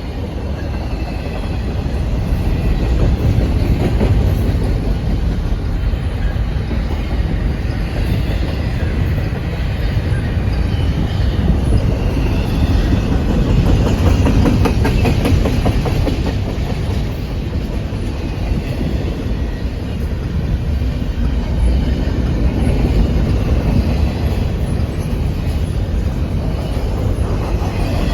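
Container freight train rolling past, its wagons' wheels giving a steady loud rumble and clattering over rail joints, with faint high-pitched wheel squeals.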